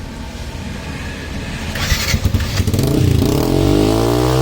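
Yamaha FZ15's single-cylinder engine running through an aftermarket Akrapovic exhaust with its dB killer fitted. It idles, then is revved up about three seconds in, the pitch rising.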